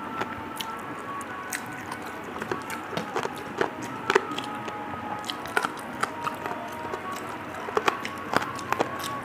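A person chewing and smacking mouthfuls of rice and fish curry, with many short, wet clicks scattered through. Faint background music plays underneath.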